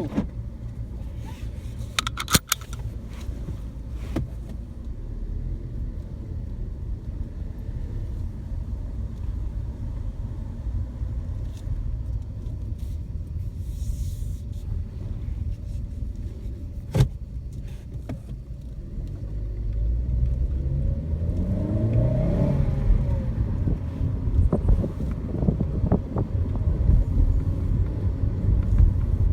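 A Chevy Sonic being driven, with a steady low engine and road rumble. From about two-thirds of the way through, the engine speeds up with a rising pitch and grows louder as the car accelerates. There are a few sharp clicks near the start and another partway through.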